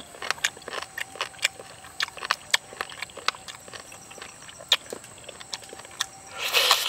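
Close-up eating sounds of someone biting and chewing boiled cow's foot: irregular wet smacks and clicks from the mouth, several a second, with a louder, longer noisy smack or slurp near the end.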